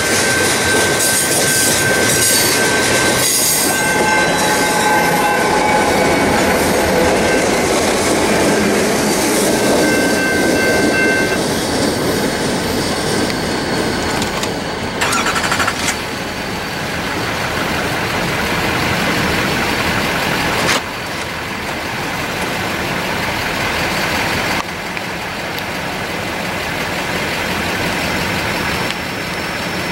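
Continuous welded rail train rolling past: the steady rumble and clatter of its loaded rail cars on the track, with faint high whines in roughly the first ten seconds. It grows quieter in steps in the second half as the rear locomotives pass and the train draws away.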